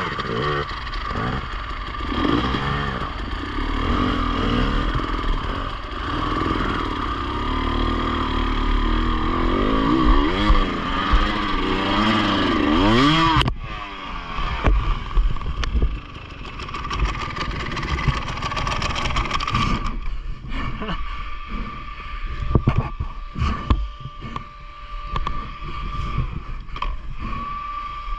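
Enduro motorcycle engine revving up and down repeatedly under load while riding off-road. About halfway through the revs drop suddenly, and the engine runs low amid irregular knocks and clatter.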